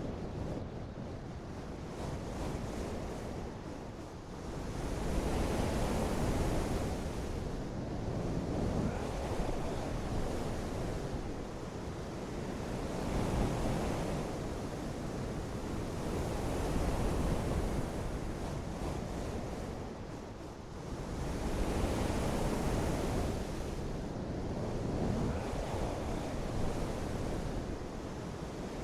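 Continuous rushing noise of water and wind, swelling and easing about every four seconds.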